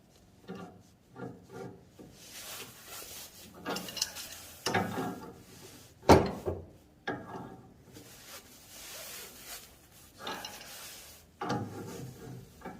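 Irregular scraping and rubbing of hand tools working on metal pipe fittings, as a ball valve is fitted into a heating line, with one sharp knock about six seconds in.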